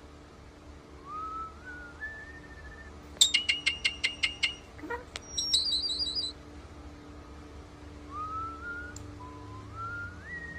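European starling whistling a slow phrase that climbs in steps. Midway it breaks into a quick run of clicks, about eight a second, and a short high warble, then returns to the rising whistle.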